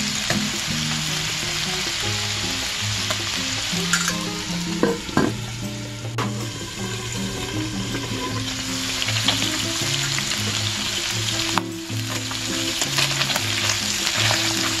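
Chicken pieces and chicken liver sizzling steadily as they fry in oil in a stainless-steel Saladmaster electric skillet, with a few sharp metal clinks against the pan.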